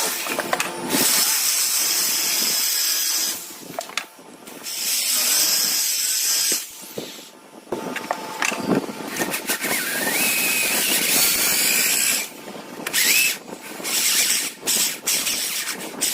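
Electric arc welding: a loud crackling hiss that comes in several bursts of a few seconds each, stopping and starting abruptly as the arc is struck and broken.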